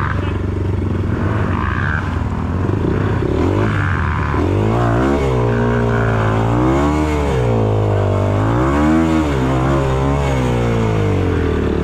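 Dirt bike engine running, then revved up and down about three times in the second half, its pitch rising and falling with each burst of throttle.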